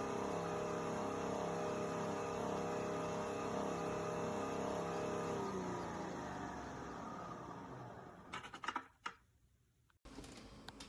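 A small appliance motor whirring with a steady hum that winds down in pitch about five seconds in and fades away. A few clicks follow near the end.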